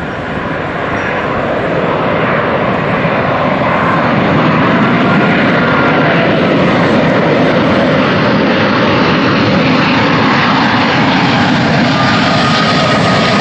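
Airbus A380 on approach to land, the jet noise of its four Rolls-Royce Trent 900 turbofan engines growing louder over the first few seconds and then holding steady, with a faint thin whine coming in near the end.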